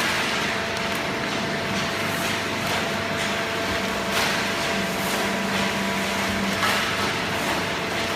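Automatic hydraulic baler running: a steady machine hum with a low tone that holds for about two seconds near the middle, and a few short knocks or clatters.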